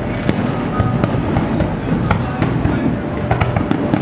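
Fireworks display: a quick, uneven string of sharp bangs and crackles over a steady low rumble of distant shell bursts echoing off buildings.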